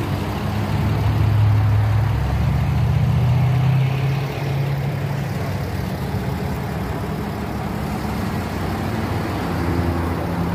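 Car engine running with a deep, steady rumble, a little louder in the first few seconds before settling.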